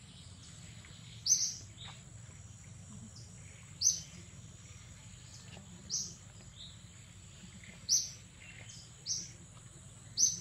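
A bird chirping: short, sharp, high-pitched calls, a loud one about every one to two seconds with fainter ones between. Under them runs a thin, steady high whine.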